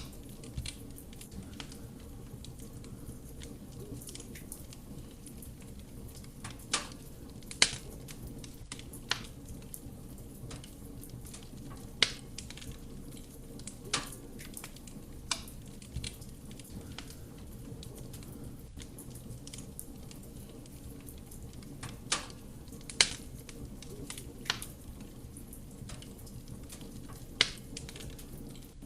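Wood fire burning in a fireplace: a steady low rumble of flame with about a dozen sharp crackles and pops from the burning wood at irregular intervals.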